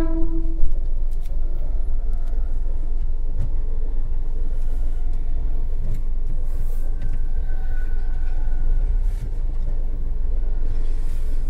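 Hyundai Grand i10's engine running at low revs as the car moves slowly on a test drive after its clutch replacement, a steady low rumble heard from inside the cabin. A vehicle horn is just ending at the start.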